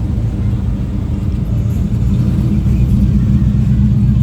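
Truck engine running with a deep, steady rumble, growing slightly louder in the second half.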